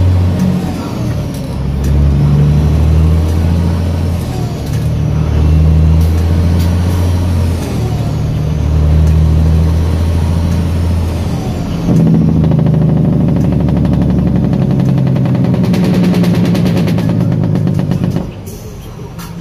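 Loaded sand dump truck's diesel engine pulling away and working up through the gears: the engine note climbs, then dips at each shift every two to three seconds. It settles into a higher, steadier pull, then falls back sharply near the end.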